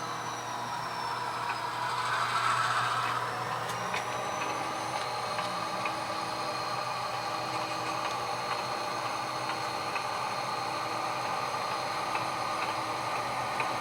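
HO scale model diesel locomotive's onboard sound decoder playing a steady diesel engine sound, swelling briefly a couple of seconds in, with a few faint clicks from the model's running gear.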